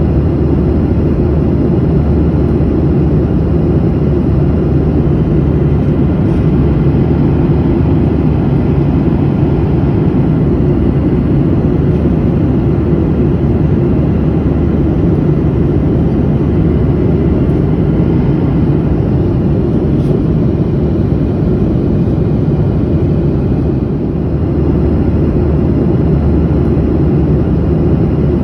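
Steady, loud cabin noise of an airliner in flight: a constant low rumble of engine and airflow with faint steady engine tones, dipping slightly near the end.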